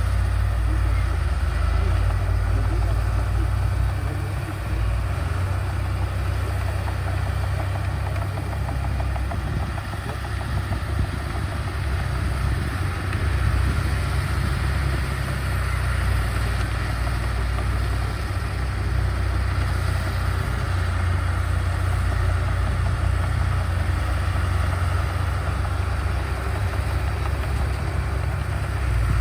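Diesel engine of heavy earthmoving machinery running steadily with a deep, low rumble.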